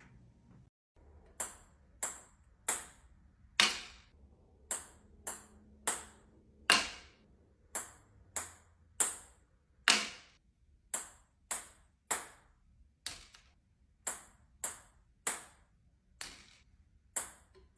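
A series of short, sharp high-pitched pings, each dying away quickly, coming at uneven spacing of about two a second from about a second and a half in.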